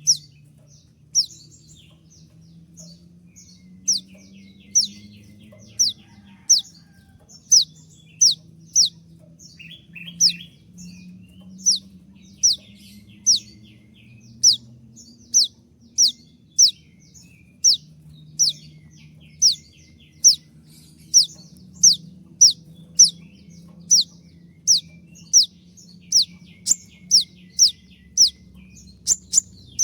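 Konin (kolibri ninja) sunbird giving sharp, high call notes that each slide downward. They come one after another about one to two a second, closer together toward the end, over a faint steady low hum.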